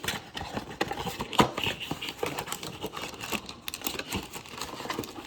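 Plastic shrink wrap and cardboard packaging of a trading-card blaster box crinkling and tearing as it is opened, with many small clicks and taps of handling.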